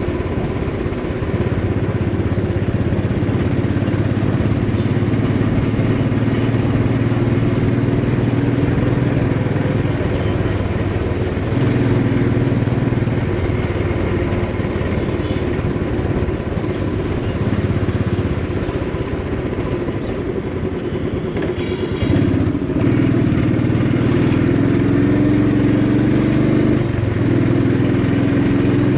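Motorcycle engine running while riding, its note rising and falling with the throttle over steady wind and road noise. About three quarters of the way through the engine note breaks off briefly, then picks up again.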